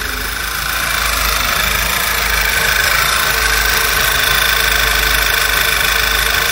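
Volkswagen 1.8 TSI turbocharged four-cylinder petrol engine idling unevenly, without a whistle. The mechanic puts the rough idle down to a failing crankcase breather (PCV) valve.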